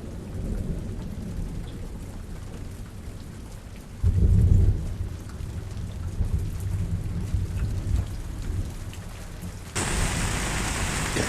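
Thunderstorm: rain with low rolling thunder, and a loud thunder rumble about four seconds in. Near the end the sound switches suddenly to a steady, brighter hiss of heavy rain.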